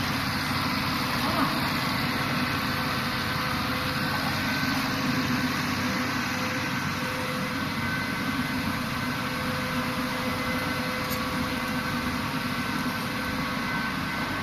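Steady hum of production-line machinery at an air-conditioner refrigerant charging station, with a few faint constant tones over an even noise and no sudden events.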